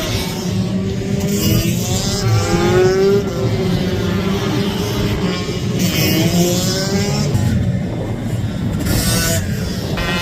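Racing minibike engines at high revs, the pitch climbing again and again and dropping back at each gear change as the bikes pass on track.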